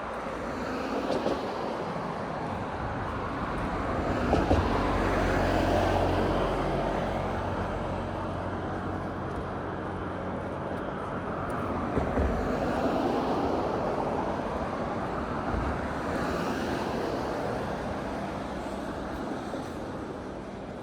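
Road traffic: cars passing on a street, the tyre and engine noise swelling up and fading away twice, loudest about five seconds in and again about thirteen seconds in.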